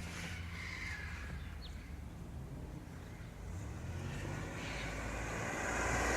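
Wild green parrots screeching in scattered calls, with a short rising call about one and a half seconds in, over a low, steady engine hum.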